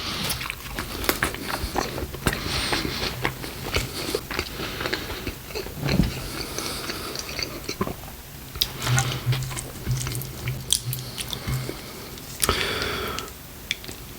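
Close-miked chewing and biting of a Taco Bell beef burrito, full of irregular wet clicks, smacks and crackles.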